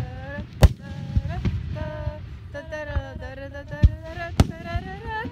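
Aerial firework shells bursting in the sky, about five sharp bangs, the loudest about half a second in and near the end. Wavering pitched sound, music or voices, runs underneath.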